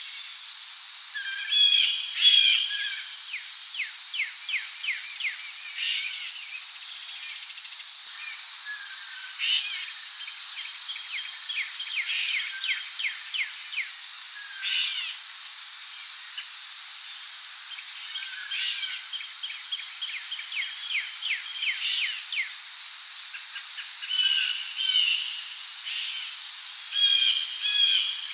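Rainforest ambience: a steady high-pitched drone of insects such as crickets, with birds calling over it again and again, including runs of quick repeated chirps at about four a second.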